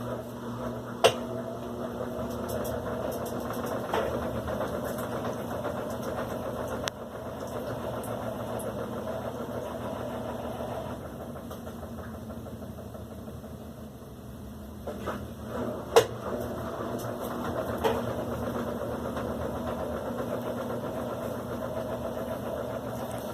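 Electrolux Silent Control LAC16 top-loading washing machine running, a steady motor hum with a few sharp clicks.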